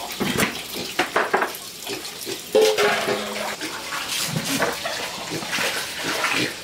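Water splashing and sloshing, with many short wet knocks and splashes throughout.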